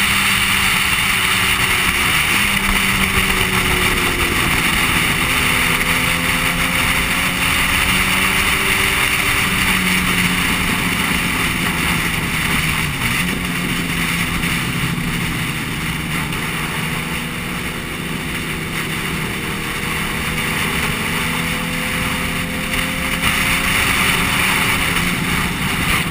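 Yamaha sport bike's engine running at road speed under steady wind rush, its pitch stepping and gliding up and down a few times with throttle and gear changes.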